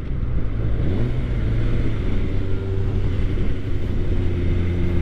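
2013 Suzuki GSX-R 600's inline-four engine running under way; its note rises about a second in, then holds steady.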